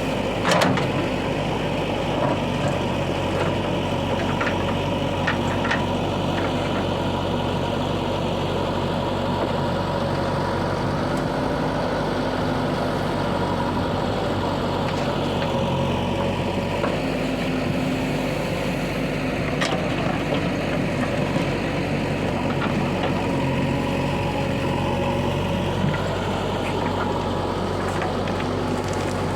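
Heavy diesel machinery engine running steadily, with a few short sharp knocks, the loudest about half a second in.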